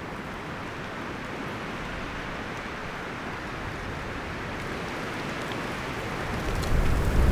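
Wind blowing through forest leaves and branches: a steady rustling hiss that builds and swells into a stronger gust near the end, with a deep low rumble.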